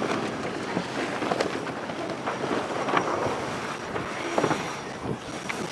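IMOCA racing sailboat under way: wind on the microphone and water rushing past the hull, with scattered short knocks and creaks from the deck gear as the boat tacks.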